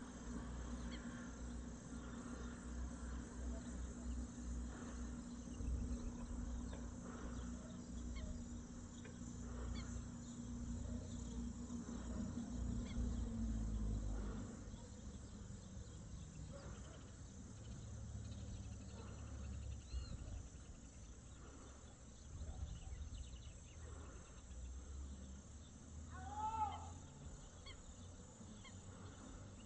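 Outdoor ambience: a low rumble throughout, a steady low hum that fades out about halfway, and scattered faint bird calls. Near the end comes one louder arching call.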